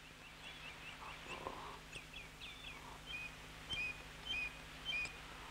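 Faint bird chirps. Short curling notes come first, then a two-note call, high then lower, repeated about every half second in the second half.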